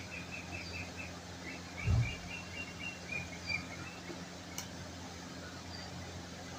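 A small bird chirping in quick repeated series over a steady low hum, with one dull thump about two seconds in.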